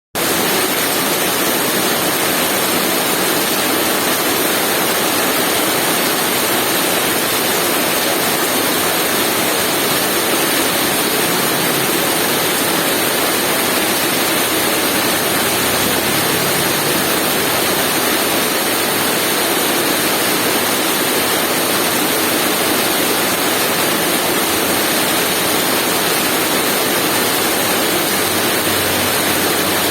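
Heavy rain falling, a steady even wash of noise with no letup.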